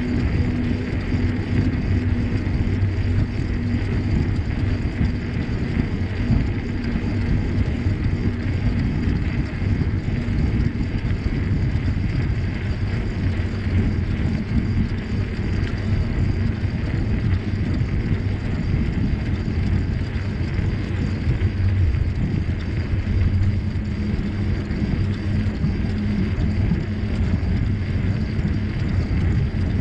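Steady low rumble during a bicycle ride: wind buffeting the microphone and tyres rolling over the trail, unbroken throughout.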